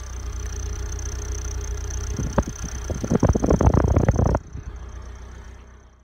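Small petrol car engine idling through an exhaust fitted with a cheap fake blow-off-valve whistle, which adds only a thin steady high whistle. About two seconds in the engine is revved briefly, with loud rapid exhaust pulses, then the sound drops suddenly and fades out.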